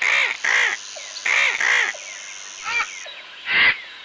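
Harsh, caw-like bird calls used as the vulture's call: six short calls, the first four in two quick pairs, then two more spaced out. A steady high-pitched tone runs behind them and stops about three seconds in.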